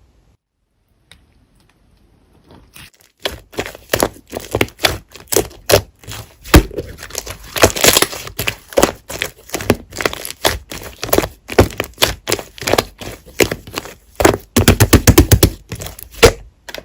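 Slime being squeezed and pressed by hand, making a dense run of sharp crackling pops and clicks from trapped air. It starts about three seconds in, and near the end the pops come in a fast, quick-fire run.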